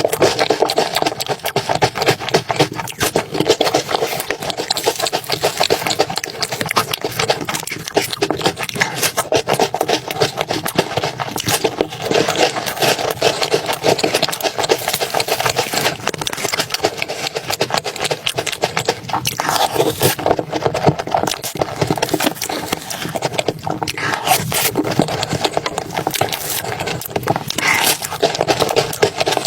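Close-miked eating: continuous chewing and mouth sounds, a dense run of wet clicks and crackles with no pause.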